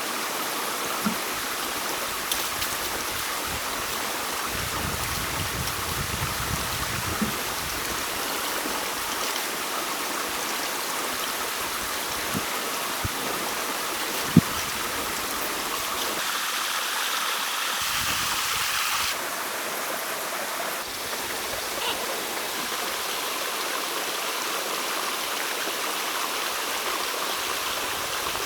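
Stream water flowing with a steady rush, with a few faint knocks scattered through and one sharper click about halfway.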